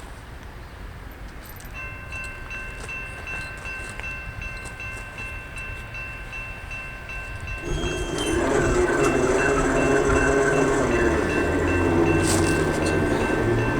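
A crossing bell starts ringing about two seconds in. About eight seconds in, an approaching Norfolk Southern stack train led by a GE AC44C6M diesel locomotive becomes much louder, with its horn sounding over the engine and the rumble of the train.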